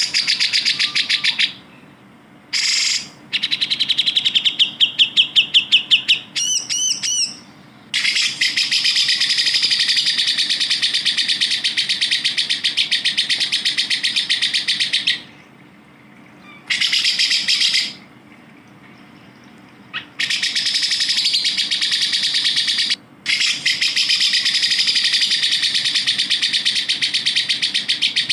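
Grey-cheeked bulbul (cucak jenggot) song used as a training recording: long, very rapid trills of repeated notes in bouts of up to about seven seconds, separated by short pauses. A brief run of sweeping whistled notes comes about six seconds in.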